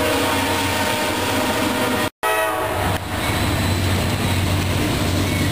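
Diesel freight locomotives passing close, engines running over the rumble of the wheels on the rails. About two seconds in the sound cuts out for an instant, a train horn fades briefly, and a steady low rumble of a diesel freight train approaching follows.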